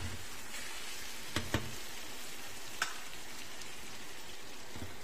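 Beef and green chilli masala sizzling steadily in a pan on the stove, with a spatula clicking against the pan twice about a second and a half in and once near three seconds.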